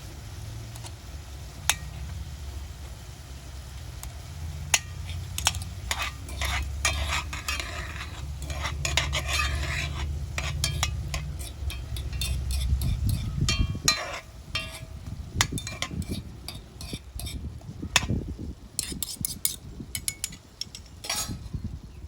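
A metal utensil stirring and scraping in a cooking pan with many sharp clicks, over food sizzling. A low rumble runs underneath for the first half and fades out after about thirteen seconds.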